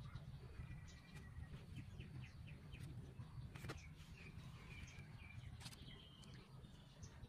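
Faint outdoor ambience: small birds chirping in short repeated notes over a low steady hum, with two sharp clicks about halfway through and again a couple of seconds later.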